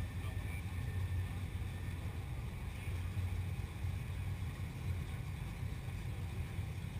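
Car engine idling: a low, steady rumble.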